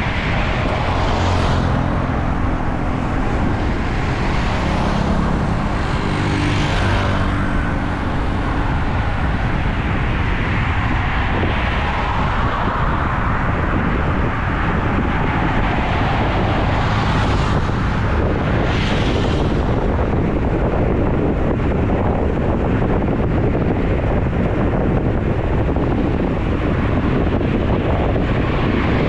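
Road traffic with motor vehicles going by, their engines heard clearly in the first few seconds, under a steady rush of wind on the microphone from riding.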